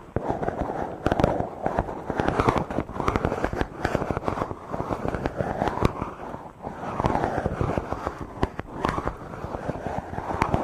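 Fingers rubbing directly on a microphone: dense scratchy, crackling friction noise that comes in repeated swells, dotted with sharp pops.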